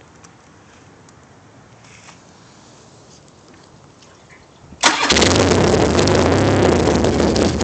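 A 1978 BMW R100/7's air-cooled boxer twin, fitted with short MGO pipes, fires on a cold start about five seconds in, after a few quiet seconds, and keeps running loud and steady at idle.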